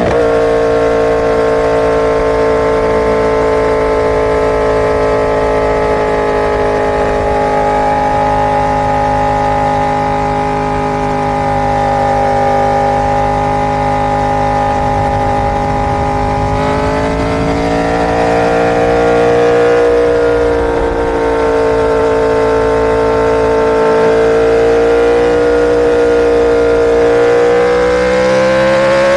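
Inline-four superbike engine running at a steady, high pitch with only slow, slight rises and falls in revs. Its pitch sags a little just past the middle, then climbs gradually again near the end.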